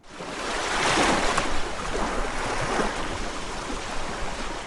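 Rushing sea water and wind, a steady loud hiss with no engine tone, swelling in over the first second and stopping abruptly.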